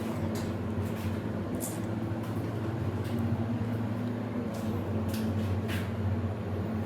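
Glass hydraulic elevator in motion: a steady low mechanical hum from the car and hydraulic drive, with a few faint light ticks.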